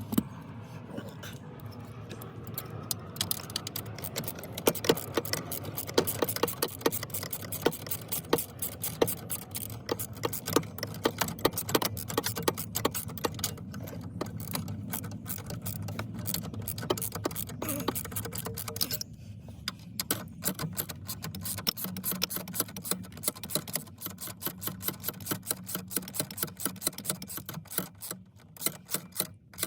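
Rapid, irregular clicking and knocking of hands and tools working on a 2013 Kia Optima's steering wheel and column, with a short pause about two-thirds of the way through.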